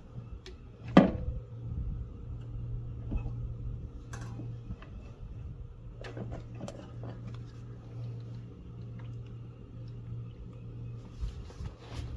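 Hand work on a small mower engine while a carburetor is unhooked from its linkages and lifted off: a sharp knock about a second in, then scattered light clicks and taps, over a steady low hum.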